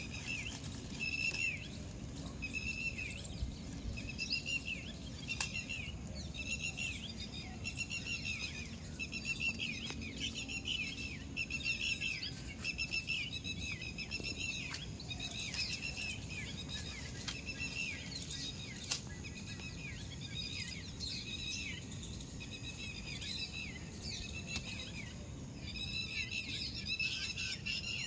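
Birds chirping: many short arched calls repeat and overlap, over a steady low rumble.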